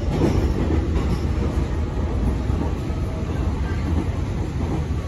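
Tobu 60000 series electric commuter train heard from inside the car while running at speed: a steady, continuous rumble of the wheels on the rails and the train in motion.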